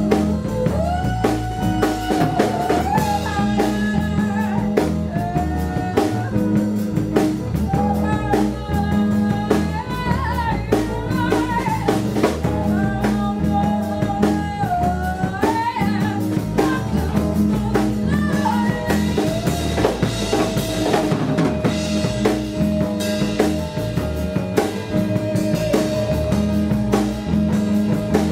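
A live band playing a song with drum kit, guitar and bass under a melodic lead line, possibly sung, with a steady beat throughout.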